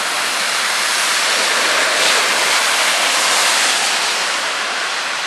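Heavy rain and rushing floodwater on a flooded road, a loud, steady hiss.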